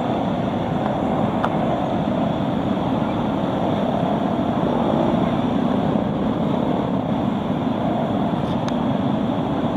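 Dense motorbike traffic: many small scooter and motorbike engines running together in a steady, continuous drone.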